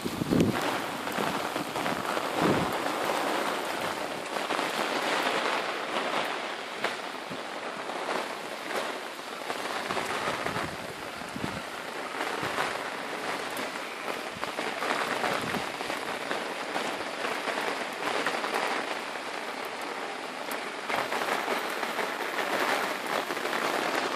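Heavy thunderstorm rain pouring steadily, with many sharp drop hits close by that swell and ease in intensity.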